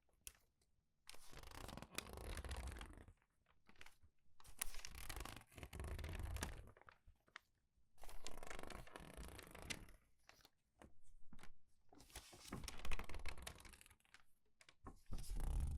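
Crumpled paper pages being turned quickly and squeezed, crinkling and crackling in about seven bursts with short pauses between them.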